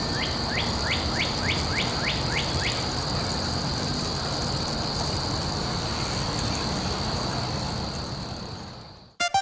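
Steady rushing background ambience with a constant high whine, and a quick run of about ten short falling chirps, roughly four a second, in the first three seconds; the ambience fades out near the end.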